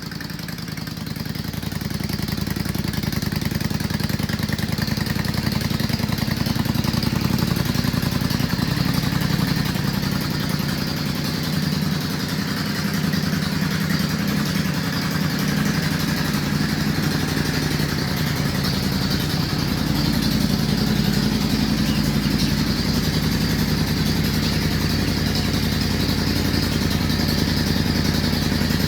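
Yamaha Drag Star 400's air-cooled V-twin running at idle through aftermarket slash-cut mufflers. The exhaust note grows louder over the first couple of seconds, then holds steady.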